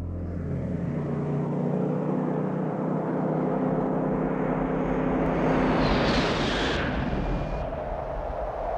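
Vehicle engine running with a steady drone, swelling into a louder rush of higher noise about six seconds in, as on a film car-chase soundtrack.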